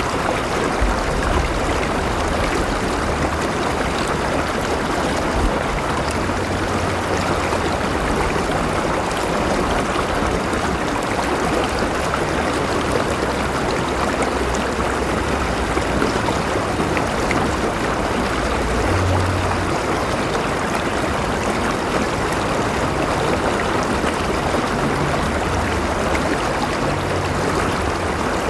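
River water flowing and splashing in a steady, continuous rush.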